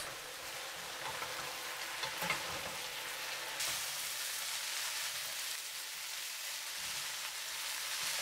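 Egg noodles with beef and vegetables sizzling in hot oil in a pan over high heat, stirred and tossed with a wooden spatula. The sizzle is a steady hiss that grows brighter about three and a half seconds in.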